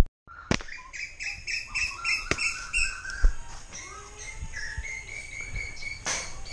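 Birds chirping and calling over and over in short high notes, with a few sharp clicks in the first half. The sound drops out briefly at the very start.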